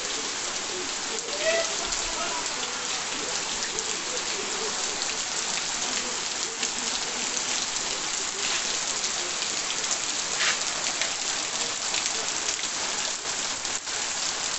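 Steady rain falling on trees and on wet, puddled ground, with the patter of many close drops hitting.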